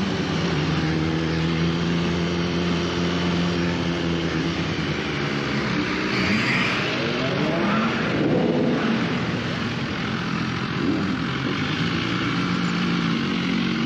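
BMW S1000RR's inline-four engine running under way with wind noise. The engine's pitch holds steady at first, then shifts up and down around the middle as the revs change.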